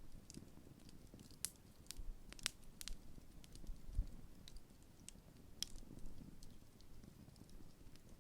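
Large wood campfire burning low, crackling faintly with scattered sharp pops, a few louder, over a low rumble of the fire.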